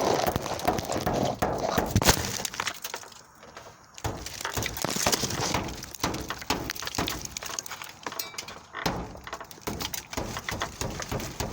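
A metal object striking a car's windshield again and again, the glass cracking and breaking, with the hardest blow about two seconds in.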